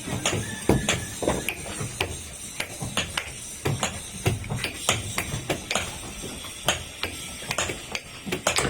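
Irregular taps and knocks, two or three a second.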